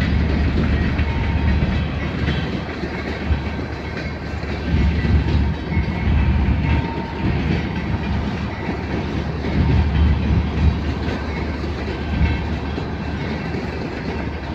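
Freight train of coal hopper cars rolling past, wheels clicking over the rail joints, over a steady low rumble of diesel locomotives.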